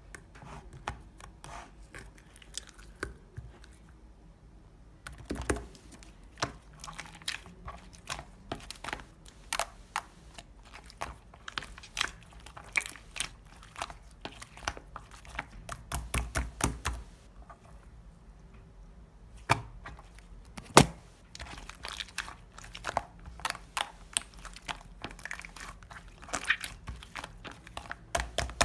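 Close-up handling noises: a dense, irregular run of small clicks, taps and crinkles, with a heavier cluster of knocks about sixteen seconds in and one sharp knock about five seconds later.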